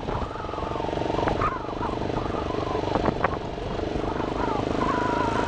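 Vehicle engine running steadily on a ride up a hill, with a dense even hum and a wavering whine above it, and a couple of sharp knocks about three seconds in.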